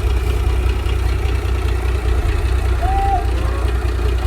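Heavy machinery's diesel engine running steadily at idle, with a brief high chirp about three seconds in.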